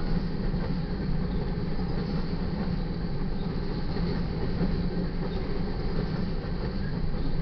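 Loaded covered hopper cars of a grain freight train rolling past, a steady rumble of steel wheels on rail.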